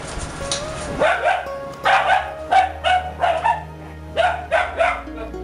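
A dog barking repeatedly in quick short barks, two to three a second, starting about a second in, over background music.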